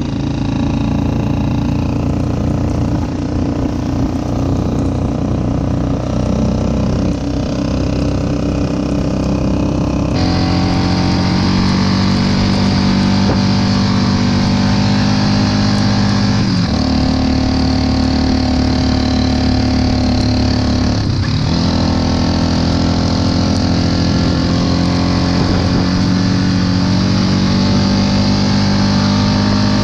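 Yamaha Wolverine four-wheeler's engine running while riding, a steady drone whose pitch steps up about a third of the way in and shifts down and back up again a couple of times later as the speed changes.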